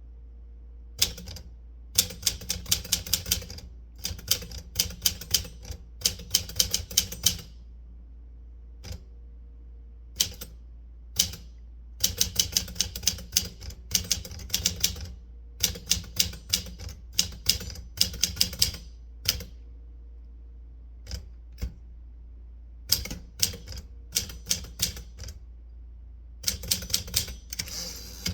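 Typewriter keys struck in quick runs of several keystrokes, with short pauses between runs, as text is typed on paper.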